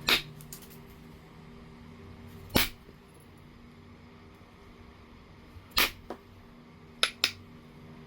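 Stone being knapped: five sharp clicks as flakes come off a piece of low-grade heat-treated Oregon jasper, spaced a few seconds apart, with the last two in quick succession. A faint steady hum sits underneath.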